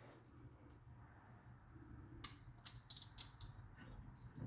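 A few light metallic clicks and taps from hand tools being worked, bunched together between about two and three and a half seconds in, over a faint low hum.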